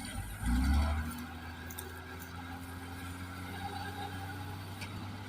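Engine of a wheat-harvesting machine revving up in a brief loud surge with rising pitch about half a second in, then running steadily.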